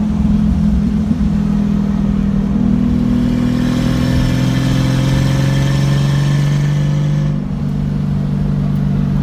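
Car engine under way, pulling up through the revs for several seconds, then the revs drop suddenly and it settles back to a steady cruise.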